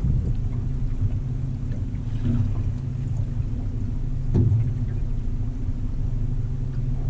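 Boat motor running with a steady low hum, with two faint knocks, about two and four and a half seconds in.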